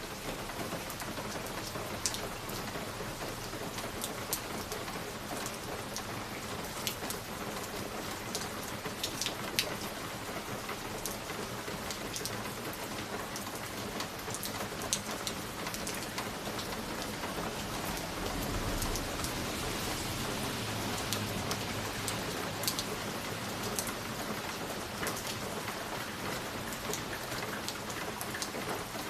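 Wood fire burning in a fireplace: a steady hiss with frequent sharp crackles and pops. A low rumble swells about two-thirds of the way through.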